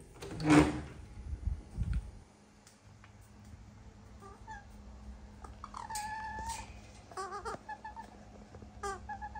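Pet barbet on top of its cage giving cat-like mewing calls: several short, wavering calls and one longer call about six seconds in. At the start a door knob turns and the door opens with a loud clatter, followed by two thumps.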